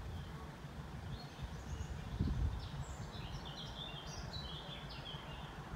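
A bird singing a string of short, high chirps for a few seconds, over a low background rumble.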